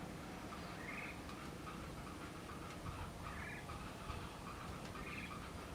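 An animal's short calls repeated about once every second or so over a steady low rumble.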